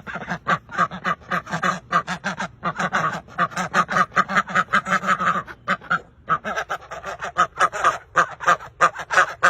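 A flock of birds calling, many rapid calls overlapping, with a brief lull about six seconds in.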